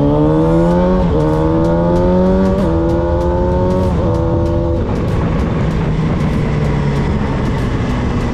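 Carbureted Honda Hornet's inline-four engine accelerating through the gears, its pitch climbing and dipping briefly at each of three upshifts. About five seconds in the engine note falls away, leaving a steady rush of wind noise.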